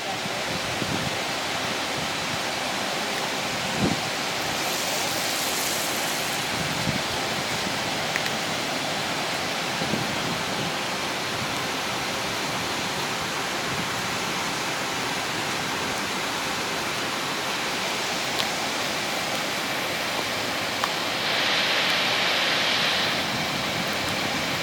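Steady rush of water from the flooding. A louder hiss swells for about two seconds near the end, and there are a few faint knocks.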